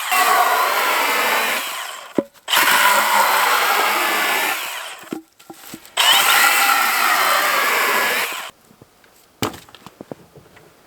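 A saw cutting through dead pine in three long passes of about two seconds each, with short pauses between them. It stops about two-thirds of the way in, followed by a few light knocks of wood.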